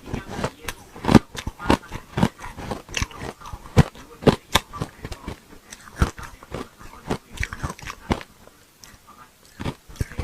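Hard chunks of ice being bitten and chewed close to the microphone, a run of sharp irregular crunches, several a second.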